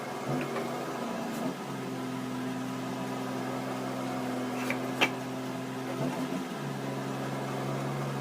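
A steady motor-like hum that shifts to a new pitch twice, with a few sharp clicks, the loudest about five seconds in.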